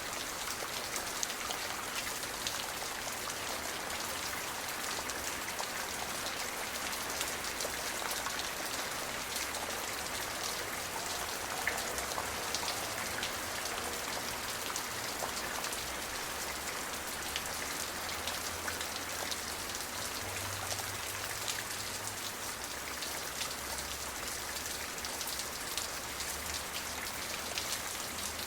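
Steady rain falling, individual drops ticking through a continuous hiss.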